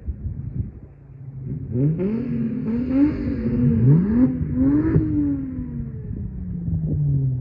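Holden VY Commodore's 3.8-litre Ecotec V6 through Redback headers, a high-flow cat, a centre muffler and a straight tail pipe. The exhaust note climbs and drops in pitch several times from about two seconds in, then falls away slowly and settles to a steady low note near the end.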